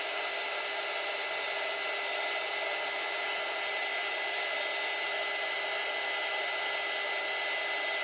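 Heat gun blowing steadily, its airflow noise carrying a steady high whine, as it melts blobs of hot glue.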